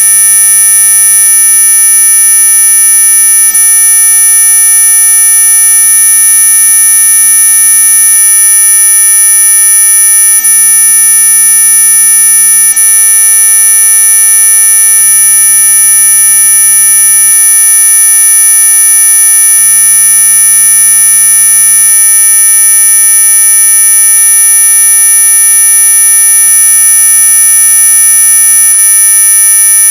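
Electronically generated mosquito-repellent sound: several high-pitched tones held together at a loud, constant level, the strongest of them very high. It never changes.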